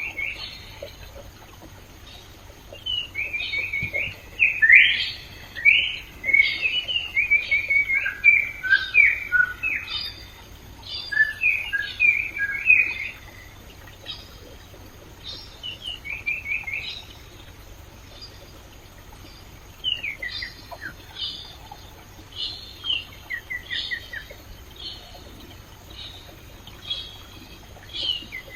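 Wild birds singing in quick runs of chirps and whistled notes, thickest in the first half and sparser later, over a steady low hiss of flowing stream water.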